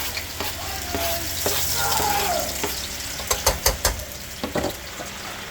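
Garlic sizzling as it fries in hot oil in a pan. A utensil stirring it clicks against the pan several times a little past the middle.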